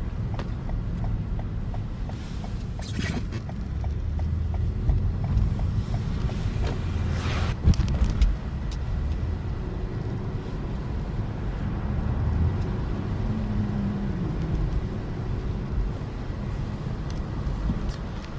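Car driving on a snowy road: a steady low rumble of engine and road noise, with a faint run of quick ticks in the first few seconds and a single loud knock about seven and a half seconds in.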